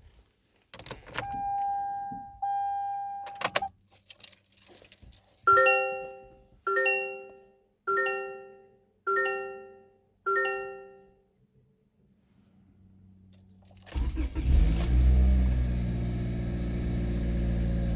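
Clicks and a steady electronic tone twice, then five dashboard chimes about a second apart, each fading out. About 14 s in, the 2023 Toyota Corolla LE's engine cold-starts, catching at once with a brief rise in revs, then runs at a steady fast idle.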